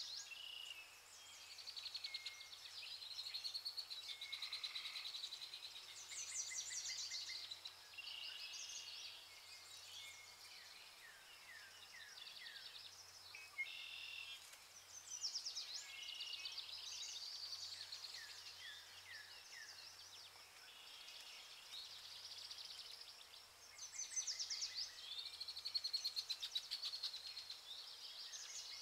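Chorus of small birds chirping and trilling, many short calls and rapid pulsed trills overlapping continuously.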